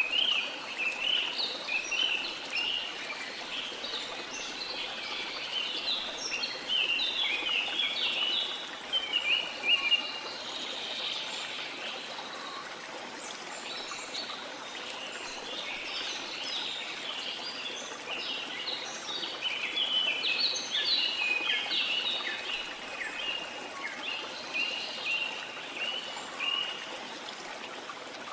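Many birds chirping in quick, busy bursts over the steady rush of a waterfall.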